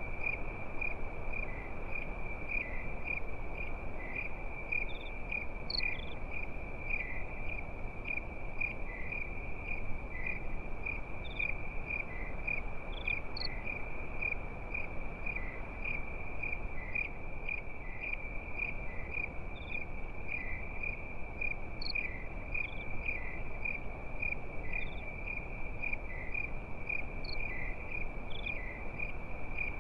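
Crickets chirping steadily in an even, rapid pulse of a few chirps a second, with occasional higher chirps from another insect, over a soft steady background rush.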